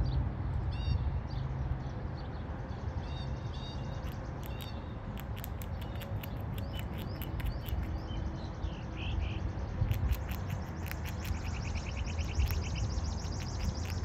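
Songbirds chirping and calling, with a rapid repeated trill during the second half. Underneath is a steady low outdoor rumble, with scattered sharp clicks.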